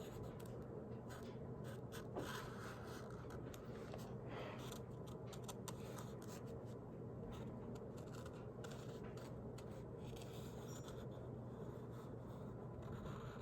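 Sharpie felt-tip marker drawing and colouring on notebook paper: faint scratching, rubbing strokes with many small irregular ticks.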